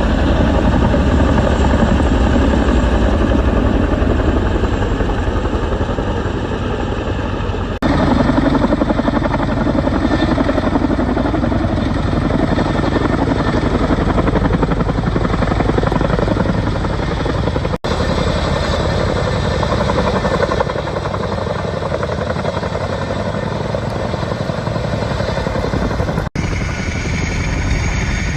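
Boeing CH-47 Chinook tandem-rotor helicopter running loud and steady, its rotors beating fast. The sound drops out for an instant three times where clips are cut together.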